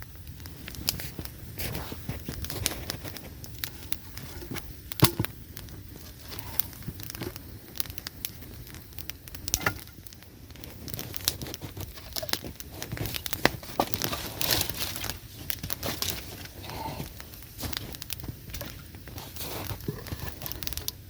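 Campfire of dry willow wood burning well, crackling with frequent sharp pops and snaps.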